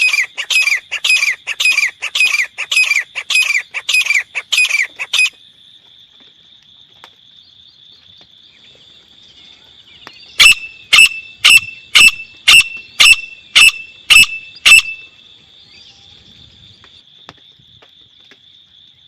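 Teetar (grey francolin) calling. A fast run of repeated falling notes, about three a second, lasts for the first five seconds. After a pause come nine loud, sharp calls about two a second. A steady high-pitched hum runs underneath.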